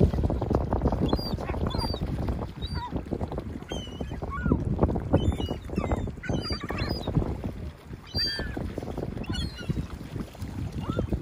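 A flock of gulls calling, many short high cries overlapping throughout, over heavy wind buffeting the microphone.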